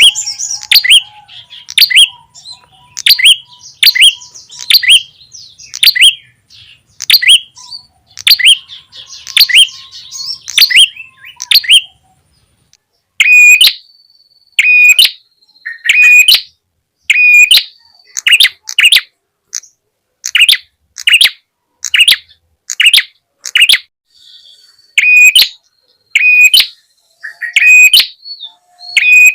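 Prenjak tamu (red-headed prenjak) lure calls: sharp chirps repeated at about two a second, each falling in pitch. After a short pause about twelve seconds in, evenly spaced single calls follow at about one a second, each with a short steady whistled note.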